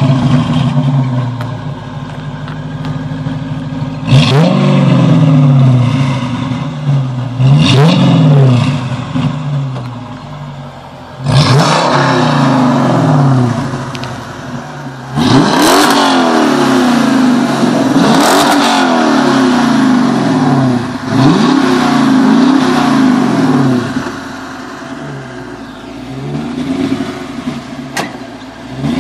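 Dodge Challenger engine and exhaust revved repeatedly while standing, each blip rising sharply in pitch and falling back to a rumbling idle.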